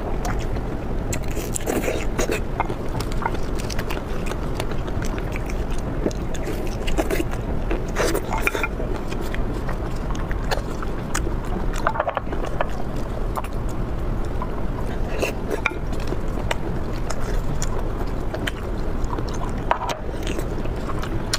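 Close-miked eating: chewing and biting with scattered short clicks and scrapes, over a steady low background noise.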